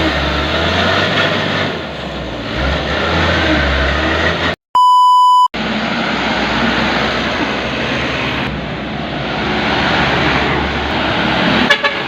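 Diesel dump truck engine running steadily. About five seconds in, the sound cuts out and a steady electronic beep plays for under a second, then the engine noise comes back.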